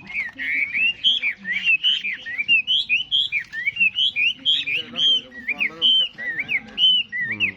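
Chinese hwamei (họa mi) singing: a fast, unbroken run of loud whistled notes, each sliding up and down.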